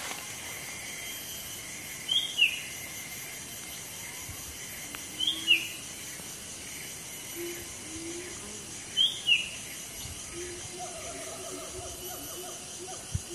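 A bird calling a short two-note phrase, a high note then a lower one, repeated four times at intervals of about three and a half seconds. A steady high insect drone runs underneath.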